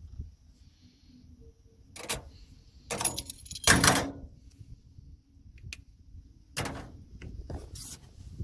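Metal parts clinking and rattling in a few short bursts, the loudest cluster about three to four seconds in.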